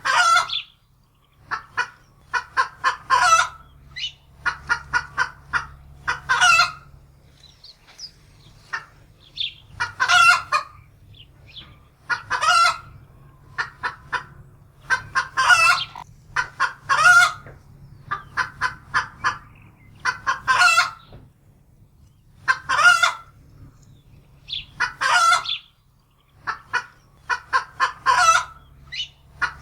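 Domestic hen cackling in alarm: runs of quick short clucks, each building to a long, loud squawk, repeating every two to three seconds.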